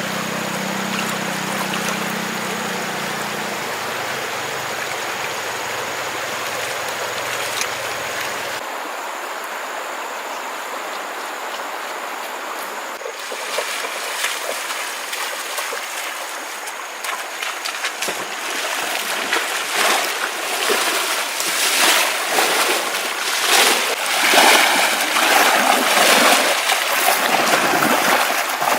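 Water running steadily in a stream; past the middle, irregular splashing in the water starts and grows louder.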